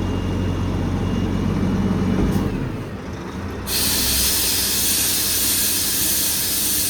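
Kenworth truck's diesel engine running, fading about two and a half seconds in; then a loud, steady hiss of compressed air being let out of the truck's air system starts suddenly and keeps going.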